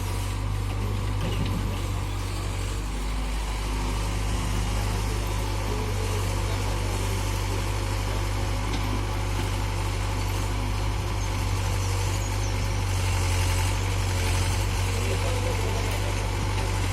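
Heavy diesel engine running steadily at a low, even pitch.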